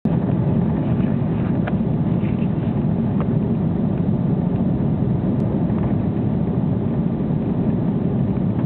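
Steady low rumble of an Airbus A330 cabin in flight, the engines and airflow running at a constant level, with a couple of faint clicks.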